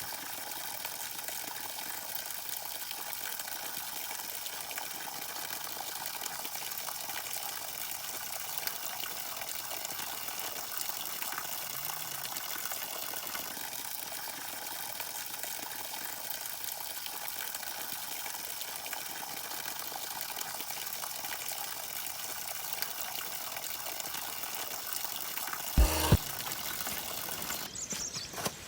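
Steady hiss of water, even and unbroken, with a short knock about 26 seconds in.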